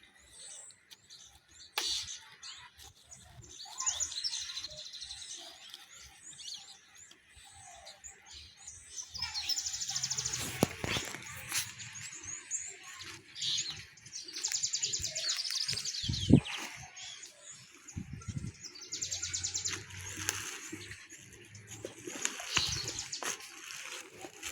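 Birds chirping and trilling in several bouts, with scattered rustling and knocking and one sharp thump about two-thirds of the way through.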